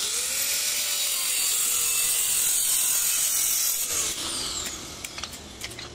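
A power tool running with a loud high hiss and a faint wavering hum, starting abruptly and tailing off after about four seconds.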